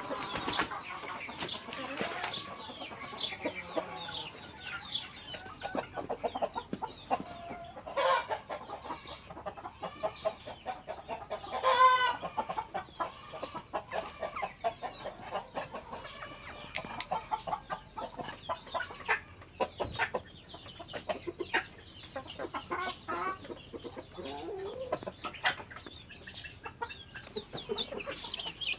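A flock of chickens clucking continuously, many short overlapping calls, with one louder drawn-out call about twelve seconds in.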